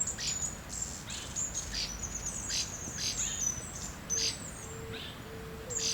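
Small birds chirping, a quick run of short high calls with brief downward sweeps, over a low background hum of noise. A faint steady low tone comes and goes in the last two seconds.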